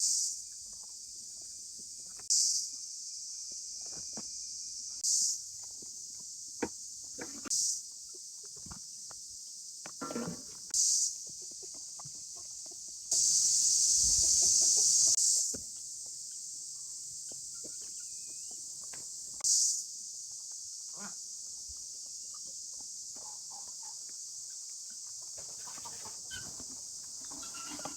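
Insects chirring steadily at a high pitch, swelling louder in short bursts every few seconds, with one longer swell about halfway through. Scattered light knocks and clicks sound in between.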